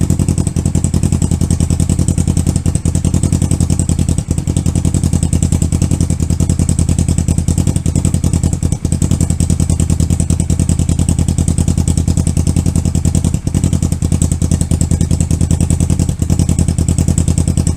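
2014 Kawasaki Ninja 650's parallel-twin engine idling steadily through a custom stainless steel exhaust, with an even, rapid exhaust pulse.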